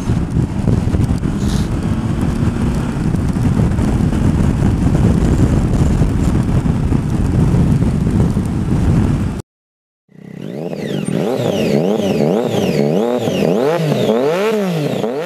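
Triumph Tiger Explorer motorcycle's three-cylinder engine and wind noise while riding. About nine seconds in it cuts off abruptly, and after a short silence an electronic warbling tone begins, rising and falling in pitch over and over.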